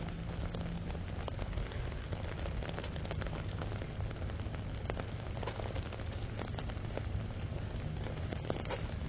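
Steady rain falling, with many individual drops ticking sharply, as on an umbrella overhead, over a steady low rumble.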